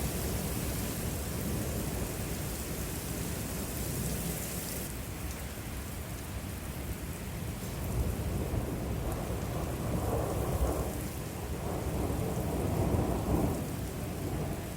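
Thunderstorm under a supercell: steady rain with low thunder rumbling. A loud hiss of rain eases off about five seconds in, and the rumbling swells several times in the second half.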